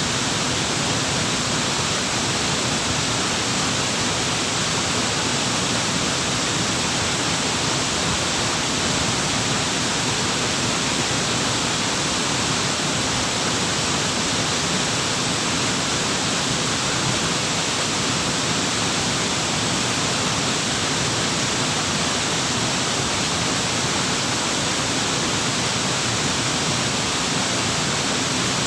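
Waterfall flowing: a steady, even rush of falling water that does not change.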